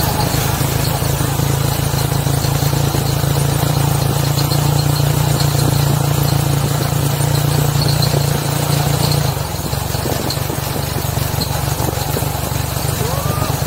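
Motorcycle tricycle's small engine running steadily under way, a constant drone that gets a little quieter about nine seconds in.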